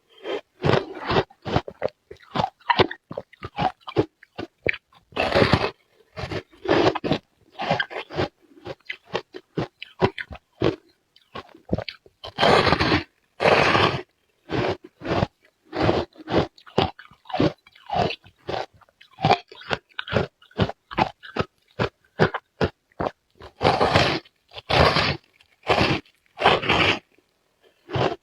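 A person biting and chewing hard ice cubes close to the microphone: rapid runs of short, sharp crunches, with bigger bites about five seconds in, around twelve to fourteen seconds, and near the end.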